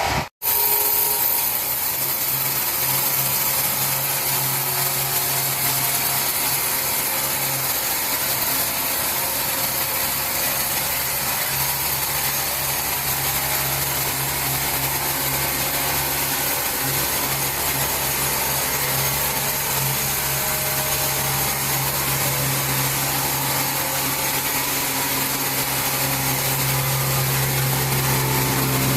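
Woodworking power saw machine running steadily: a constant motor hum under a dense, even hiss of machine and cutting noise, with a brief cut-out just after the start.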